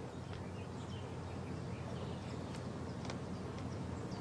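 Outdoor ambience: scattered short bird chirps over a steady low hum, with a few faint clicks.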